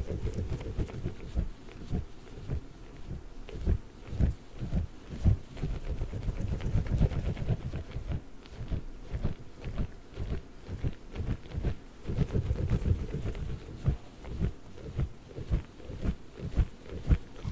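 Giant Orbeez water-bead ball handled close to the microphone, making a steady run of soft, low, irregular thuds, several a second.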